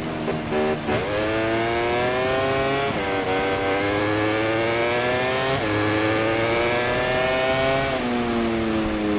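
MotoGP racing motorcycle's four-cylinder engine heard onboard: a few quick downshift blips near the start, then hard acceleration up through the gears, with upshifts about three and five and a half seconds in. The revs fall near the end as the throttle closes.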